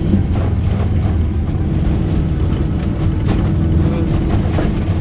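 Rally car engine running at a steady, unchanging pitch, heard from inside the cabin while driving on a dirt track, with scattered short clicks and knocks over it.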